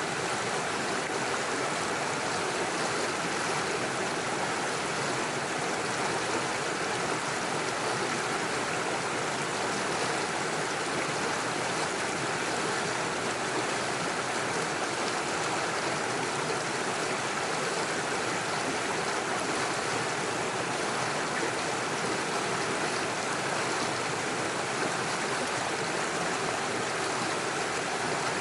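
Small rocky forest stream running steadily over stones and small cascades, a constant rush of water.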